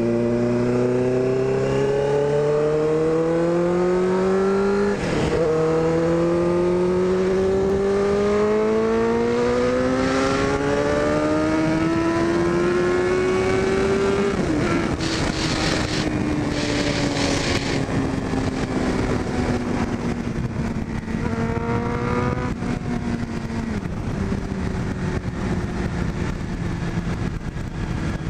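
2001 Suzuki GSX-R600's inline-four engine accelerating: the pitch climbs, drops at an upshift about five seconds in, and climbs again for about ten seconds. It then falls slowly as the bike slows and holds steady near the end, with a brief rush of noise partway through.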